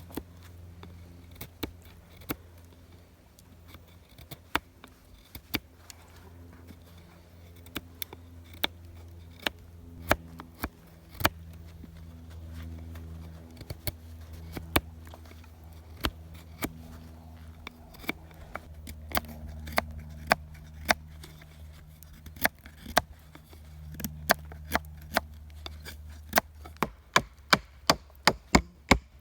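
Wood being chopped with a blade: sharp, irregular knocks that come faster toward the end, about two a second. A low steady hum runs underneath.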